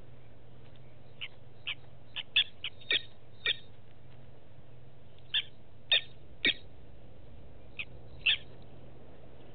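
A bird calling: about a dozen short, sharp notes in three groups, a quick run in the first few seconds, then three louder ones and a last pair near the end.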